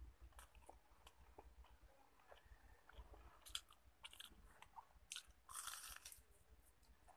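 Faint close-up chewing and crunching of crispy fried food eaten by hand, a run of short sharp crunches with the densest, loudest crunch about five and a half seconds in.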